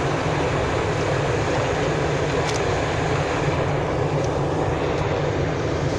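Steady cabin noise of an airliner in flight: a constant rumble and rush of engines and airflow, with a faint click about two and a half seconds in.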